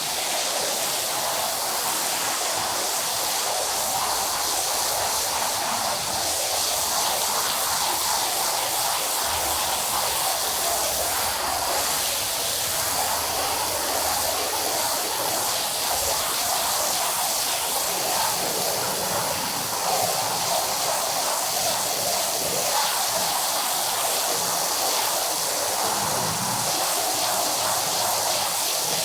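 Steady rushing hiss of water during carpet washing, with no pauses or distinct strokes.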